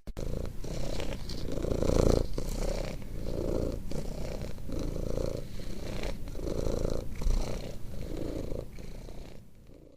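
Domestic cat purring close up, a steady low rumble that swells and eases with each breath, about every one and a half seconds, fading out near the end.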